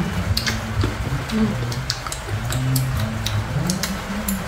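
Hard, unripe green mango being bitten and chewed close to the microphone: an irregular string of sharp crunches and mouth clicks.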